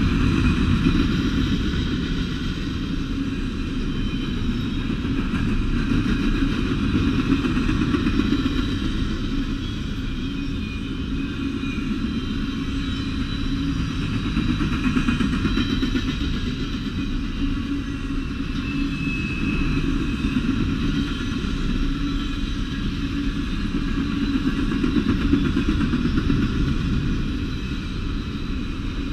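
Double-stack intermodal freight train passing close by: a steady rumble of steel wheels on the rails, swelling and easing a little as the well cars roll past.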